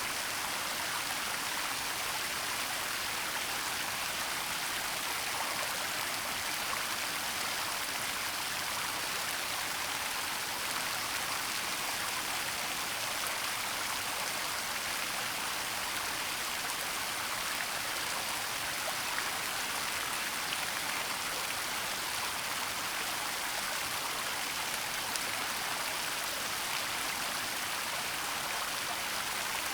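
Waterfall rushing steadily, an even hiss of falling water that stays constant throughout.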